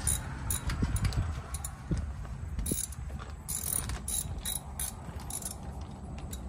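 Socket-wrench ratchet clicking in short irregular runs as a starter-motor mounting bolt is loosened with a 10 mm socket on an extension bar, over a steady low rumble.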